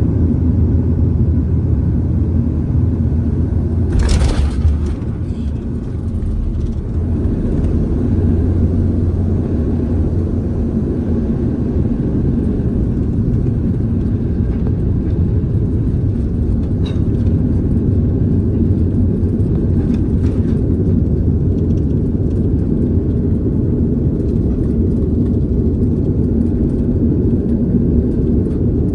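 Airliner cabin noise: a steady low rumble of engines and airflow heard from a passenger seat, with one brief sharp clack about four seconds in.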